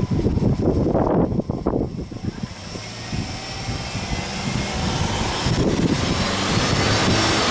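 Subaru Impreza WRX STI's turbocharged flat-four boxer engine running with the car parked and the bonnet open, being free-revved. It surges unevenly for the first couple of seconds, drops back, then gradually gets louder with a faint high whine.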